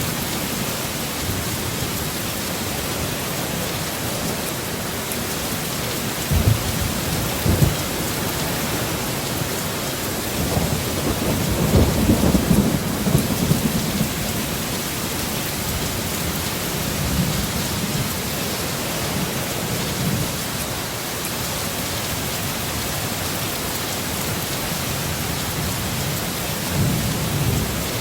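Steady heavy rain with rolls of thunder: two short low cracks a second apart about six seconds in, a longer rumble around the middle, and a smaller one near the end.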